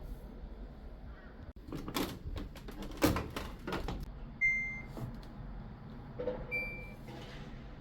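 Household objects being handled: a cluster of knocks and clatter, followed by two short, high beep-like tones a couple of seconds apart.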